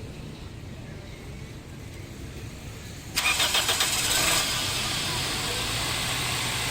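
Toyota Corolla Altis engine being cranked by its starter: a sudden loud start about three seconds in, with rapid pulsing for about a second before it settles into a steady running sound. The car has a hard-starting problem.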